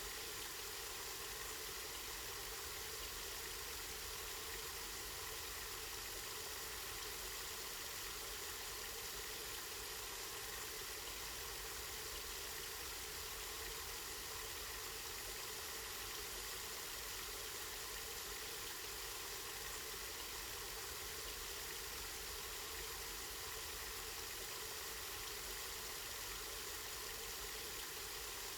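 Water from a spring running steadily, an even rushing hiss with no breaks.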